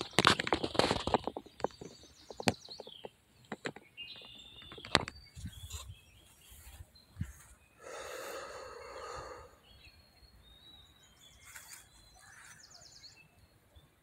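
Small birds chirping in short, scattered calls over faint outdoor background noise. Rustling and clicking handling noise fills the first second or so, a few single clicks follow, and a brief low hum-like sound comes about eight seconds in.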